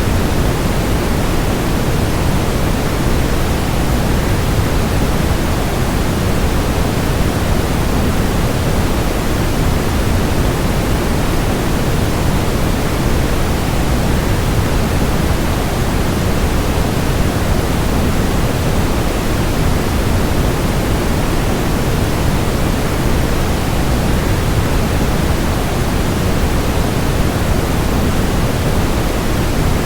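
A waterfall's steady, unbroken rushing noise, deep and even, with no changes.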